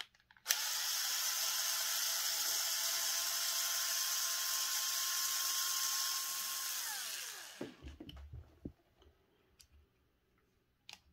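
Small electric drill motor running at a steady speed for about six seconds, then winding down in pitch when it is let off. A few faint clicks of parts being handled follow.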